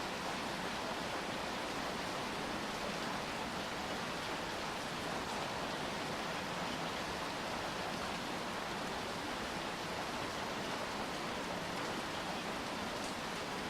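Steady rain falling, an even hiss with no distinct drops or other events.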